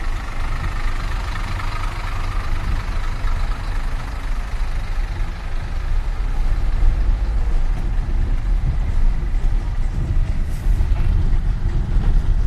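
Steady low rumble of a running vehicle, engine and road noise with no breaks.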